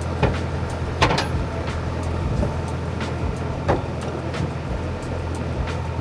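Widebeam boat's engine running steadily with a low hum, with a few sharp knocks and clicks over it, the loudest about a second in.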